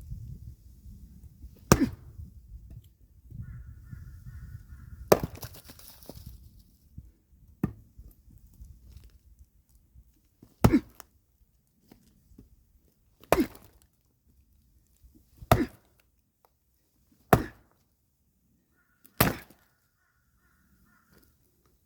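Axe splitting firewood: eight sharp, hard strikes into wood, spaced about two to three seconds apart.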